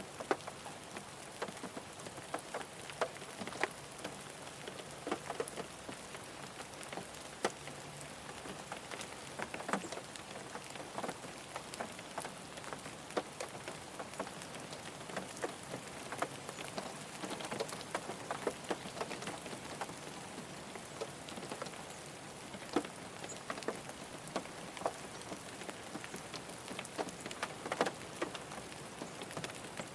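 Steady rain falling on a car, with many separate drops ticking sharply against the body amid a constant hiss of rainfall.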